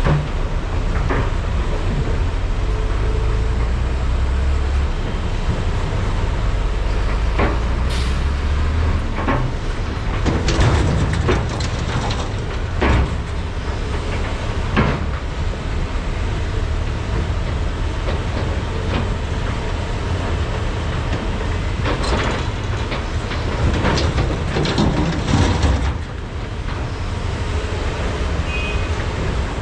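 Diesel engines of large hydraulic excavators running steadily under load, with repeated clanks and knocks of rock and steel buckets as trucks are loaded, bunched in two spells through the middle and toward the end.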